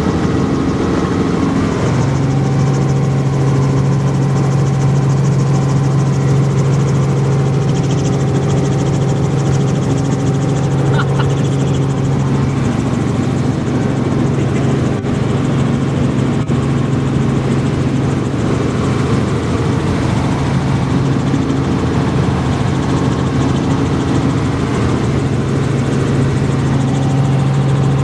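Helicopter in flight: steady loud engine and rotor noise with a constant low hum.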